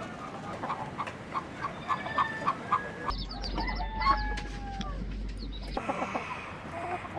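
Chickens clucking in a quick series of short calls, with a longer drawn-out call partway through, likely a rooster crowing.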